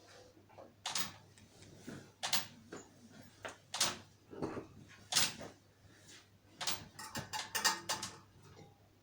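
A series of sharp metallic knocks and clacks, about one every second and a half, then a quick run of clanks with a brief ringing near the end.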